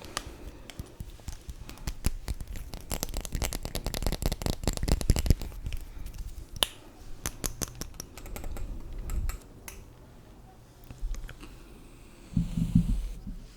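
Close-miked clicking and tapping on makeup items, a rapid run of clicks for the first six seconds, then scattered clicks, with a short low thud near the end.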